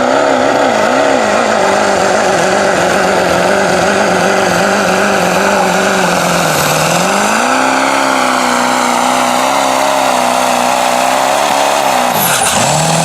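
Loud truck engine running at high revs under power, its pitch wavering. It drops about seven seconds in, climbs back, and falls away near the end.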